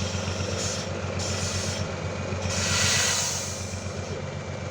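Truck trial truck's engine idling steadily, with a loud hiss of compressed air, typical of air brakes venting, lasting about a second roughly three seconds in.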